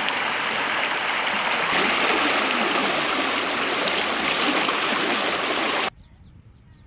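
River water rushing loudly over rapids as a steady rush, which cuts off suddenly about six seconds in. Faint high bird chirps follow near the end.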